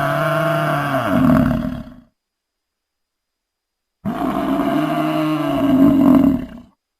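Two long, pitched animal calls, each about three seconds and swelling louder just before it ends, with dead silence between them.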